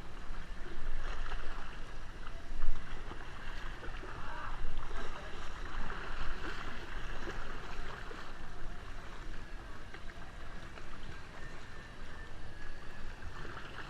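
Kayak paddles splashing and churning water, a steady irregular wash of small splashes, with one louder sudden sound about two and a half seconds in.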